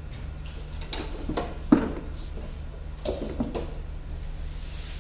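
Clunks and knocks from a Makita DLM530 cordless lawnmower being handled and moved to bring its blade into view, with a sharper knock about two seconds in and a few more past the middle, over a steady low hum.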